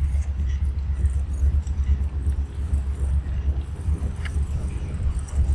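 A low, steady rumble with a fluttering, uneven level, and a few faint ticks over it.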